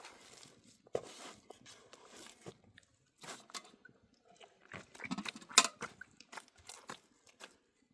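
Irregular crunching and scraping with scattered knocks; the loudest, a single sharp knock, comes a little past halfway.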